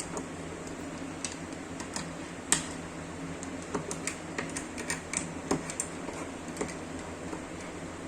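Scattered light clicks and taps of small angle-grinder parts being handled during cleaning, loudest about two and a half seconds in and coming in a quick cluster in the middle, over a steady low hum.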